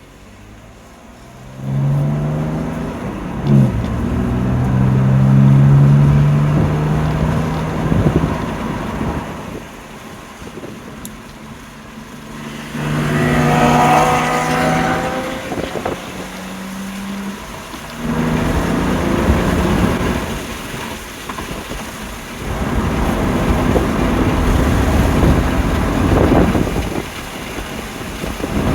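BMW M2 Competition's twin-turbo inline-six being driven hard on track, in several bursts of full acceleration separated by lifts off the throttle, with wind and road noise. The engine comes on about a second and a half in.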